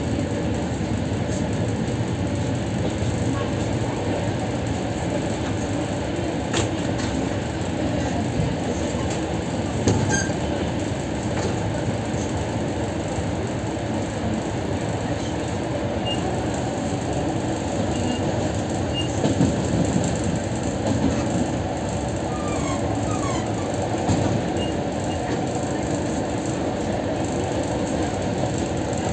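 Electric commuter train running at speed, heard from inside the carriage: a steady rumble of wheels on rail, with a few brief louder knocks along the way.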